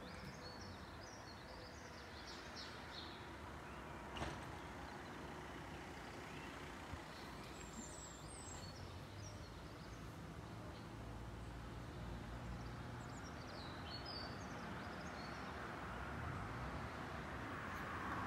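Steady outdoor background noise with small birds chirping now and then and a single knock about four seconds in. Over the last several seconds a broad rushing rumble grows gradually louder as a train approaches the crossing.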